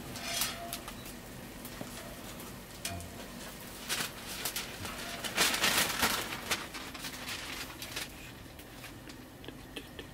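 Hotteok frying in shallow oil, with a steady sizzle and metal tongs clicking against the steel pan and rack. A louder burst of sizzling about five to six seconds in.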